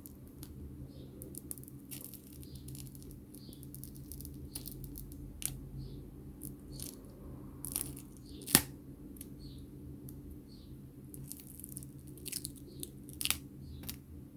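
Protective film and adhesive being peeled off a replacement phone touchscreen: scattered soft crackles and small plastic clicks, with one sharper click a little past the middle, over a steady low hum.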